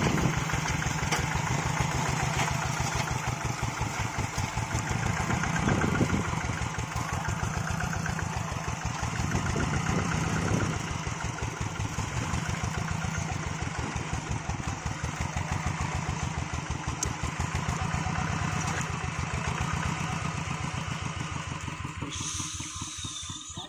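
Engine of a two-wheel hand tractor running steadily with an even, rapid chugging beat. Near the end the sound changes and then quickly drops away.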